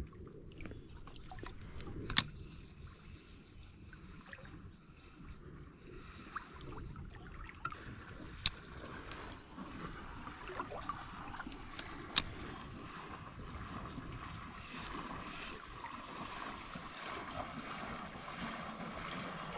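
Crickets keeping up a steady high chirring over the wash of a running creek, with a few sharp clicks, the loudest about two seconds in and near the middle.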